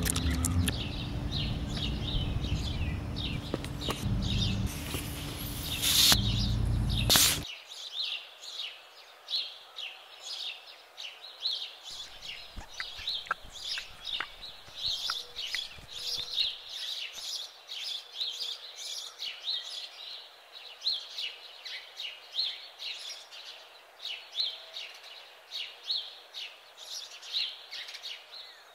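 Small birds chirping over and over, short high chirps several times a second. They sit behind a loud passage that cuts off suddenly about seven seconds in.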